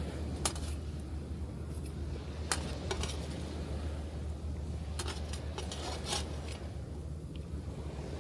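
Wood campfire crackling, with a few sharp pops scattered through, over a steady low rumble of surf.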